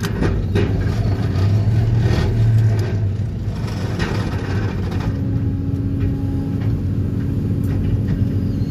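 DPD350T excavator-mounted vibro hammer running, a loud, steady, heavy mechanical drone as it drives a steel sheet pile. About five seconds in the sound settles into a steadier hum.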